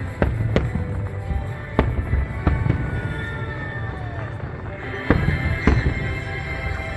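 Fireworks bursting overhead: about six sharp bangs, the loudest two near the five-second mark, with a falling whistle about three seconds in, over the show's music.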